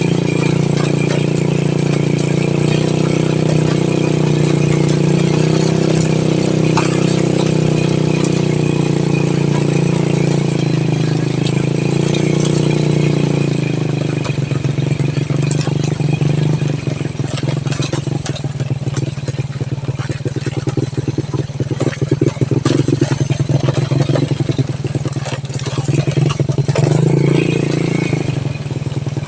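Motor vehicle engine running steadily under way. From about halfway through, a fast rattling clatter and an uneven level join it.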